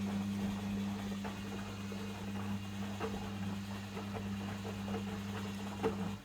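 Logik L712WM23 washing machine's drain pump humming steadily, with small rattles and clicks from the machine, then cutting off abruptly near the end.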